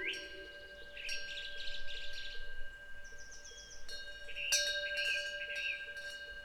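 Korean temple wind bell (pungyeong) hanging from the eaves, struck several times by its clapper and ringing on, over songbirds chirping. There is a brief warbling bird call a little after the middle.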